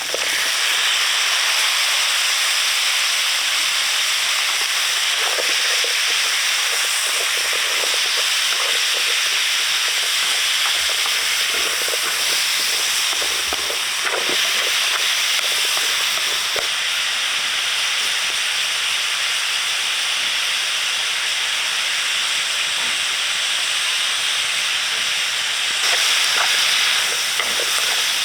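Food cooking in a hot pan: a steady, loud sizzling hiss, with light clicks and scrapes from about five seconds in to about halfway through.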